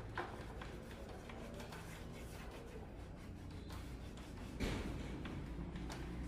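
Light handling noises: scattered small clicks and rubbing, with a louder knock about four and a half seconds in, over a low steady hum.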